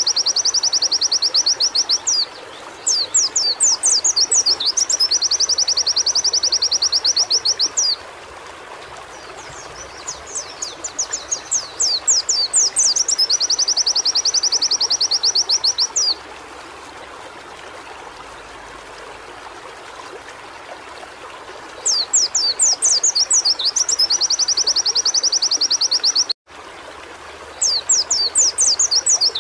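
Pleci (white-eye) singing in high, fast trills: each phrase opens with a few quick rising sweeps and runs into a rapid string of repeated notes lasting several seconds. Four such phrases, with a long pause in the middle, over a steady background hiss.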